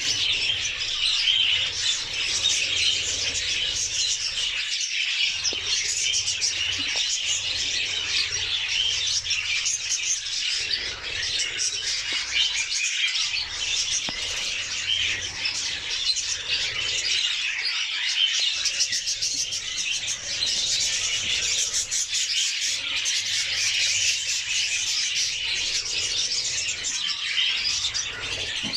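Budgerigars chattering and warbling without pause, a dense, high-pitched stream of overlapping chirps.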